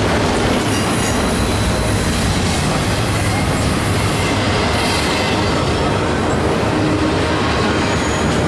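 Freight train rolling past close by: a steady, loud rumble and rattle of wheels on the rails.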